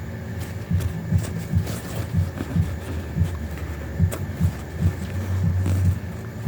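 Irregular low, muffled thumps, a few each second, with a few faint clicks among them.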